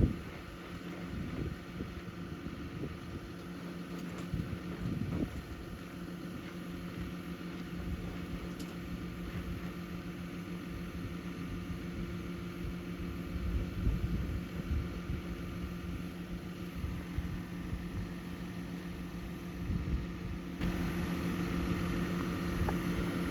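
A grain auger and its drive engine running at a steady hum while wind buffets the microphone. About three-quarters through, the sound shifts and a higher steady tone joins in.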